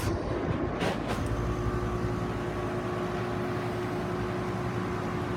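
Central air-conditioner condensing units running: a steady fan rush over a low compressor hum. A steady tone joins in about a second and a half in, and there are a couple of light clicks near the start.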